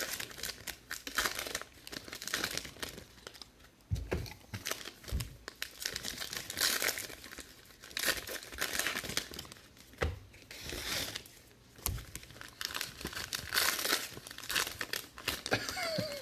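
Plastic trading-card packaging being torn open and crinkled by hand in irregular rustling bursts, with a few soft thumps.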